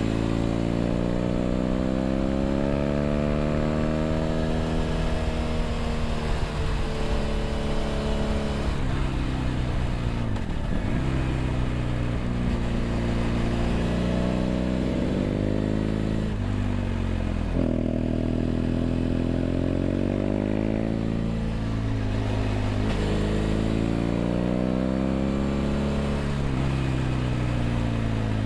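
BMW F800GS parallel-twin motorcycle engine through a LeoVince LV ONE EVO stainless slip-on exhaust, running under way with its pitch rising and falling with the throttle. The engine speed drops sharply and climbs again about 10, 16 and 22 seconds in, and again near the end.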